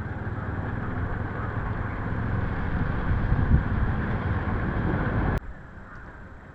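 Honda CB350 RS single-cylinder motorcycle under way, its engine and the rush of air and road noise slowly getting louder. The sound cuts off abruptly a little over five seconds in, leaving a much quieter background.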